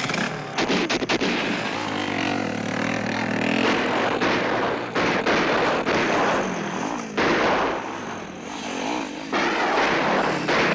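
Film soundtrack of a car in action: an engine revving up and down under dense noise, with several sharp bangs, a few near the start and more about halfway through.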